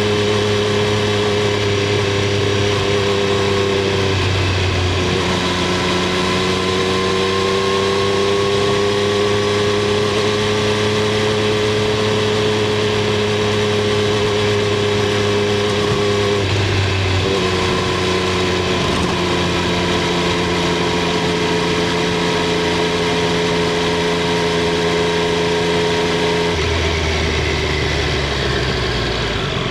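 Triumph Street Triple 765 R's inline three-cylinder engine and exhaust under way, running at fairly steady revs. The pitch dips briefly about four seconds in and again about seventeen seconds in, and falls lower near the end.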